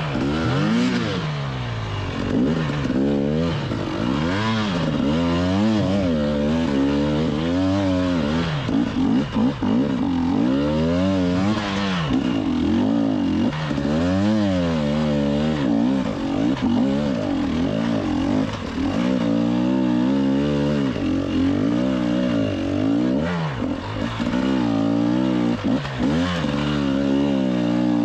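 GasGas EC 300 two-stroke enduro motorcycle engine heard from on the bike, revving up and down over and over in short throttle bursts, its pitch rising and falling every second or two.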